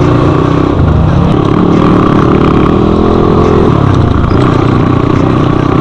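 Crossfire 250 motorcycle engine running as the bike rides along. The engine note shifts up and down several times with the throttle.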